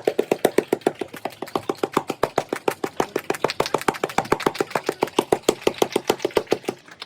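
A fast, even run of sharp claps, about seven a second, that stops abruptly near the end.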